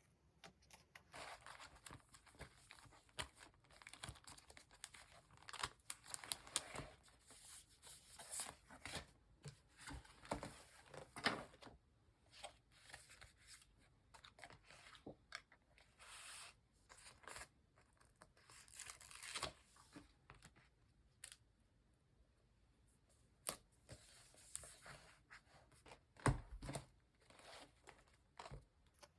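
Paper stickers being peeled from their backing and handled: irregular ripping and rustling strokes, with a few sharp taps and a soft thump near the end.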